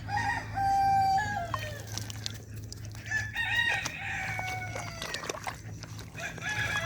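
Rooster crowing: two long crows that hold and then fall away, with a third starting near the end, over a steady low hum.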